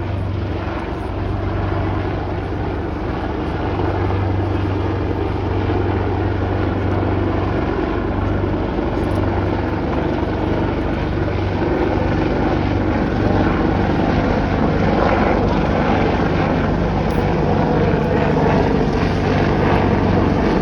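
AH-64 Apache helicopter running, a steady low hum from the rotor under dense engine and rotor noise, gradually getting louder.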